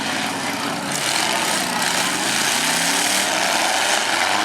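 Several demolition derby truck engines running and revving at once, their pitches rising and falling over a loud, steady din.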